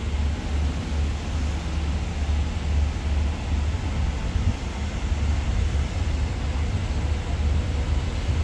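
Low, steady rumble of a passenger train rolling slowly through a station, heard from inside the carriage, with an uneven pulsing at the bottom of the sound.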